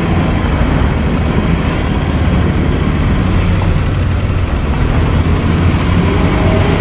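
Diesel engine of heavy earthmoving machinery running steadily, a deep low drone with a noisy mechanical haze over it.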